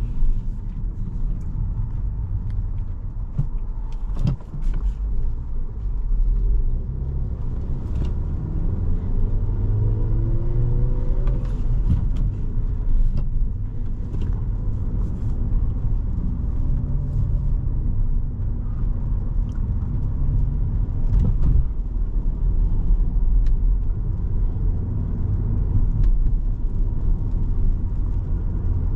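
Interior sound of a 2017 Volkswagen Jetta SE with a 5-speed manual being driven: a steady low engine and road rumble in the cabin, with the engine rising in pitch as it accelerates about ten to twelve seconds in. A few light clicks sound now and then.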